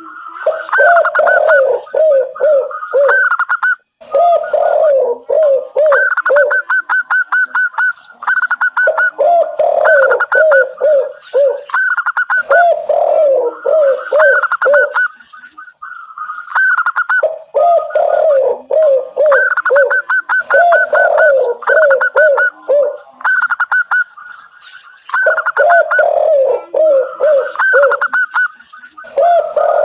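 Zebra doves singing: bouts of rapid staccato cooing notes, two voices at a lower and a higher pitch overlapping, repeated every few seconds with short pauses between.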